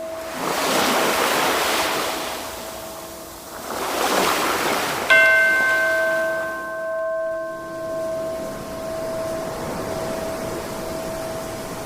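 Ocean waves washing in twice over a steady ringing tone; about five seconds in a bell is struck once and rings out slowly.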